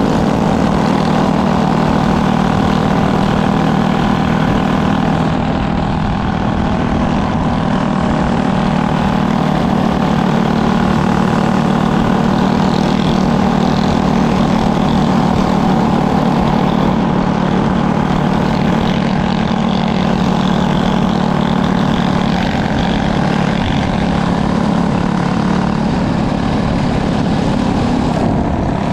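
Small propeller aircraft engine running steadily, a loud even drone with no change in pitch.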